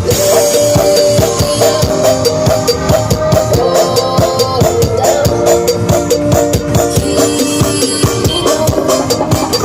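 Loud music blasting from large sound-system speaker stacks: a sustained melody over a fast, dense drum beat.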